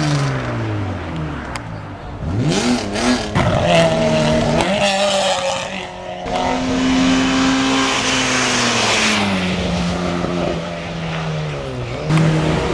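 Race car engine at high revs on a hill climb course, its pitch falling as it passes, then rising and dipping quickly through throttle changes and gearshifts before holding a steady high note that falls away.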